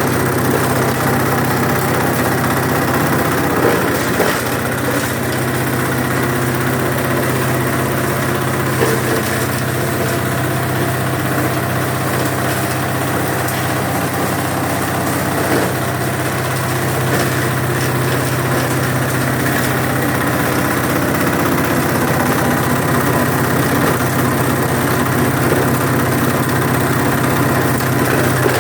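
Coconut husk shredder machine running steadily with a low drone, and a couple of brief knocks.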